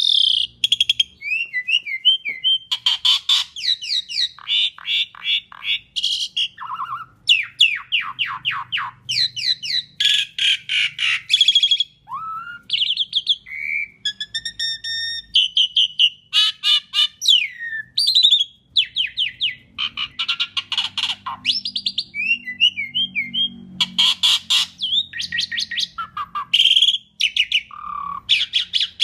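Asian pied starling (jalak suren) singing a long, varied song: fast rattling trills and chatter mixed with clear whistled notes, one phrase after another with short gaps between.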